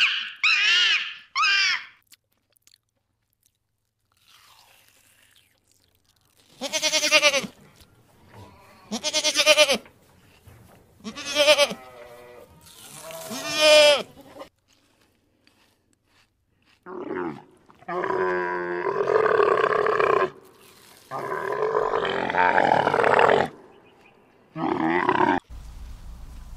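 A gibbon's rising whoops die away in the first two seconds. After a pause, a domestic goat bleats four times, about two seconds apart, and longer, rougher bleats follow.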